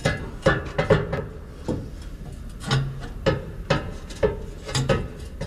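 A string of irregular knocks and clanks, about a dozen in a few seconds, as a steel exhaust downpipe is pushed and wiggled into place under a truck.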